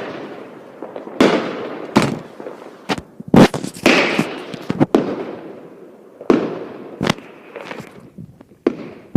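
Fireworks going off: a string of sharp bangs at uneven intervals, about nine in all, each trailing away in a fading rumble.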